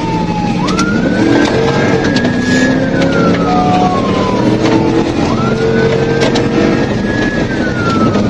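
Police car siren in wail mode, rising quickly then falling slowly twice, over a cruiser engine running hard and road noise during a pursuit.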